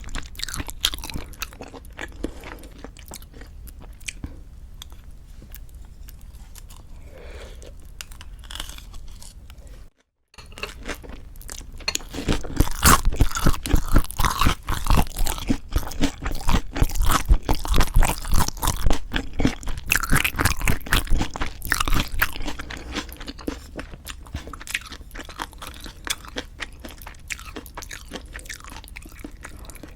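Close-miked chewing and crunching of lettuce-wrapped raw-fish bibimbap and boneless chicken feet. Soft chewing gives way, after a brief cut to silence, to a stretch of loud crunchy bites and chewing, which eases back to softer chewing near the end.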